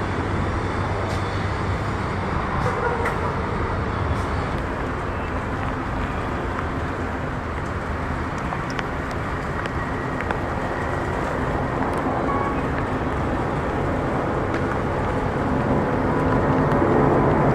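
Steady engine rumble mixed with traffic noise, growing louder over the last few seconds.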